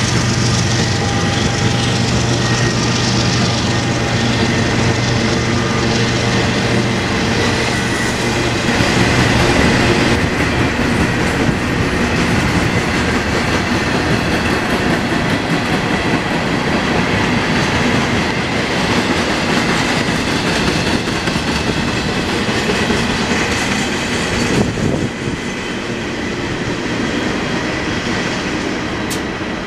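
A double-stack intermodal freight train rolling past. For the first several seconds a diesel locomotive's engine hums steadily under the noise of the wheels on the rail. After that comes the steady rolling noise of the loaded container cars.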